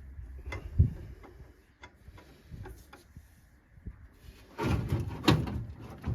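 Scattered knocks, clunks and metal scraping as a VW Karmann Ghia's air-cooled engine is lowered and worked free from under the car. There is a sharp knock about a second in, and a louder run of scraping and clanking near the end.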